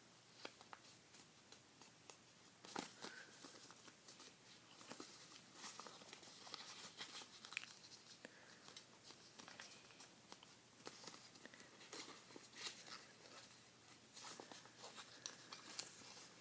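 A square sheet of paper being folded and creased by hand, with faint, irregular crinkles and rustles.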